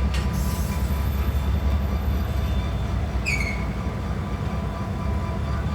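Diesel locomotives running with a steady deep rumble. A brief high squeal comes a little over three seconds in.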